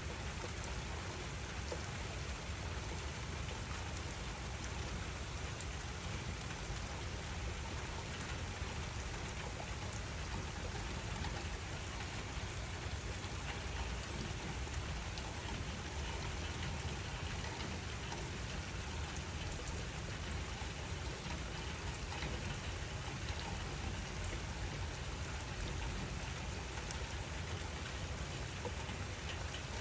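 Steady rain falling and pattering on surfaces, an even rushing hiss with a low rumble under it and scattered drop ticks.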